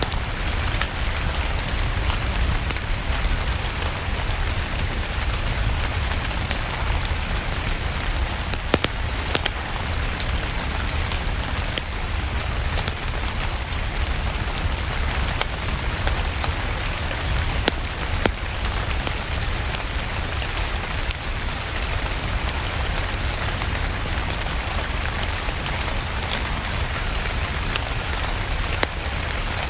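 Steady rain mixed with a crackling wood fire: a continuous hiss over a low rumble, with scattered sharp pops throughout.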